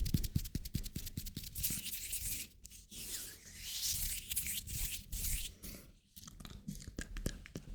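Hands rubbing together, a dry swishing in two long stretches, with quick light taps in the first second and again in the last couple of seconds.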